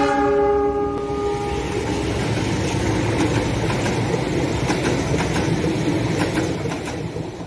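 A diesel locomotive's multi-note train horn trails off in the first second or two. Then a passenger train rolls past close by: a steady rumble with clicks of wheels over rail joints, fading out at the end.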